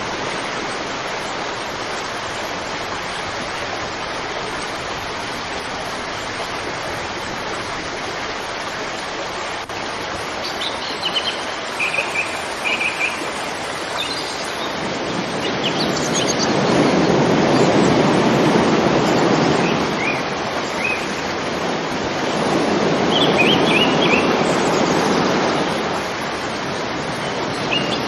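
River water flowing with a steady rushing noise, while small birds chirp briefly around the middle and again later. In the second half the rush twice swells louder and deeper for a few seconds.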